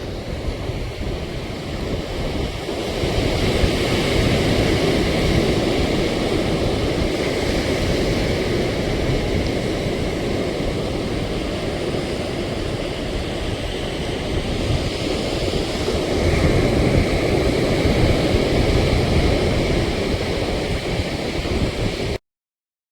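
Sea waves breaking on a beach, the surf swelling louder twice, with wind buffeting the microphone.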